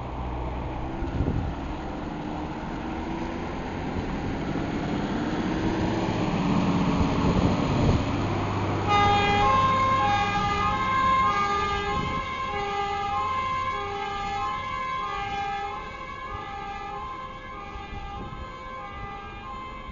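Fire engine pulling away, its engine running and revving. About halfway through, its two-tone siren starts, switching back and forth between two notes, and slowly fades.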